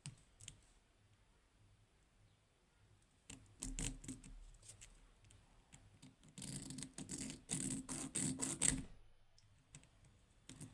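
Small hand file scraping across the head of a stripped screw in quick strokes, about four a second, to cut a new slot for a screwdriver, after a few scattered clicks of handling.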